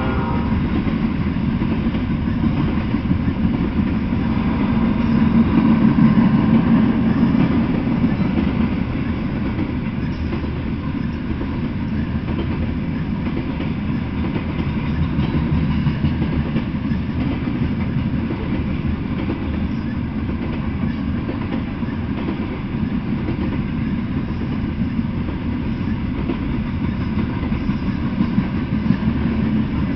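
Freight train of loaded open-top coal hopper cars rolling past: a steady low rumble of steel wheels on rails that swells a little about five to eight seconds in.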